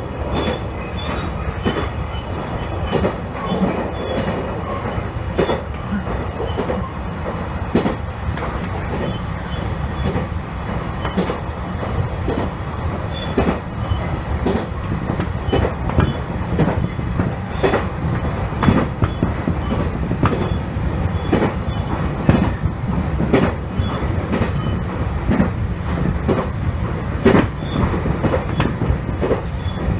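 Electric train running on the line, heard from inside the front car: a steady rumble with frequent sharp clicks of the wheels over rail joints.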